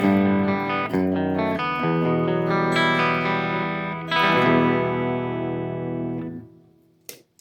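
Electric guitar played through a chorus pedal: several chords are strummed, and the last one rings out and fades away about six and a half seconds in. A short click follows near the end.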